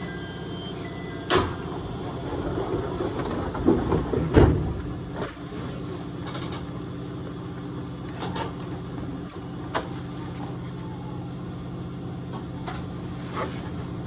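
Aoimori Railway 701 series electric train running, heard inside the cab: a steady hum with scattered knocks and rattles, the loudest cluster about four seconds in.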